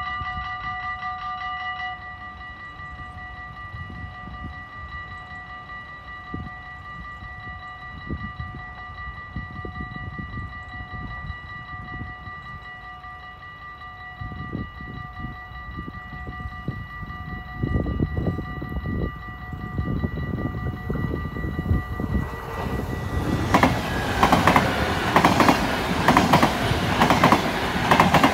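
Level-crossing bells ringing fast for about two seconds, then settling into a steady ring. A low rumble builds as a train approaches, and from about 23 seconds an NS yellow-and-blue double-deck electric train rushes past close by, clattering over the rails and drowning out the bells.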